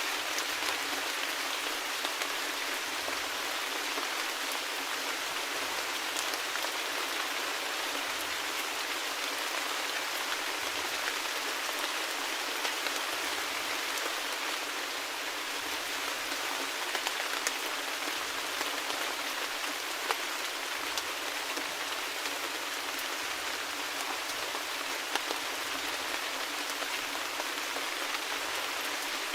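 Steady rain falling, an even hiss with many small drops pattering.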